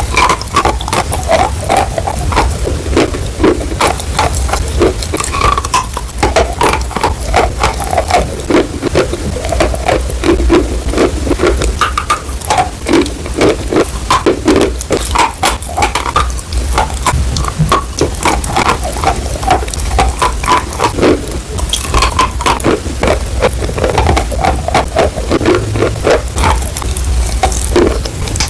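Close-miked chewing and crunching of edible chalk: a dense, irregular run of sharp cracks and crunches, with a low steady hum underneath.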